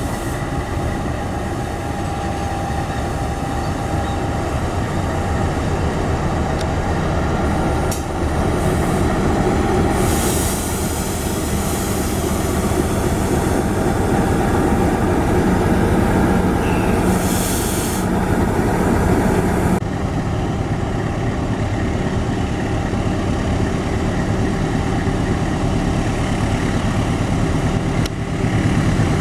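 Diesel-hauled passenger train running past, its locomotive engine droning under the rumble of wheels on the rails, with two stretches of high hissing or squealing from the wheels. The sound changes abruptly about twenty seconds in.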